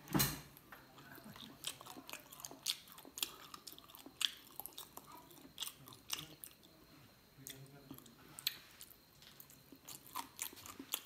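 Close chewing and biting of cooked frog meat and bones, with many irregular sharp crunches and a loud knock just after the start.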